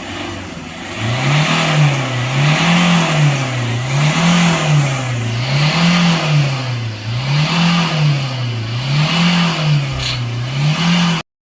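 An engine revved up and down over and over in an even rhythm, its pitch rising and falling about once every second and a half. The sound cuts in and cuts off abruptly.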